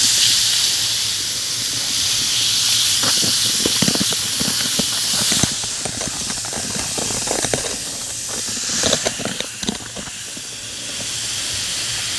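Glitter bath bomb fizzing in water: a steady high hiss, strongest for the first five seconds or so, with scattered crackling pops through the middle.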